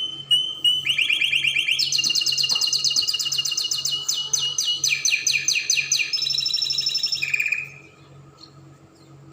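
Spanish Timbrado canary singing a run of rapid trills, each a fast string of repeated notes, stepping between higher and lower pitches. The song stops abruptly near the end.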